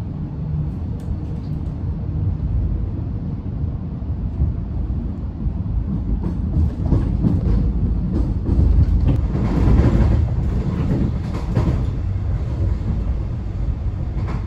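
Inside the carriage of a suburban electric train under way: a steady low rumble of wheels on the rails. It grows louder, with clattering knocks, from about six to twelve seconds in.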